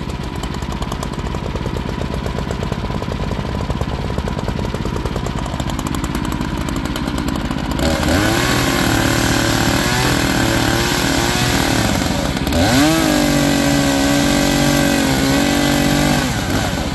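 Wood-Mizer portable band sawmill running, its engine steady at first; about eight seconds in it gets louder and a pitched whine sets in as the saw works under load. Near two-thirds through the whine briefly drops and dips in pitch, then climbs back and holds before fading near the end.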